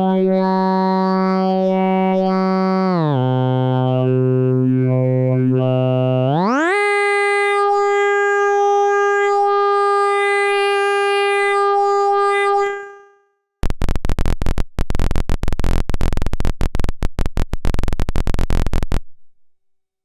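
Synthesis Technology E950 circuit-bent eurorack oscillator holding a steady tone rich in overtones. It glides down in pitch, then sweeps up and holds a higher note before fading out. After a short gap comes about five seconds of rapid, irregular glitchy clicking.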